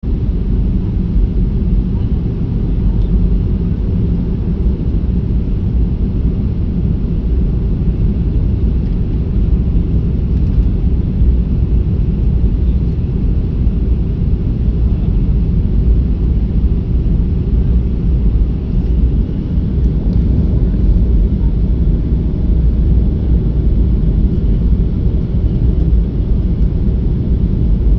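Steady low rumble of a Boeing 737-500's CFM56 jet engines and rushing air, heard from inside the passenger cabin on the landing approach.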